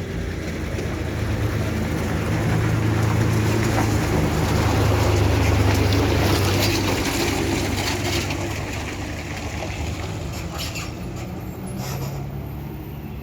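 A heavy vehicle's engine running as it passes, growing louder to a peak about midway and then fading, with road noise.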